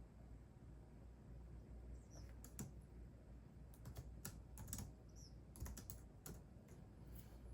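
Computer keyboard typing: light, irregular key clicks that start about two seconds in, over a faint low hum.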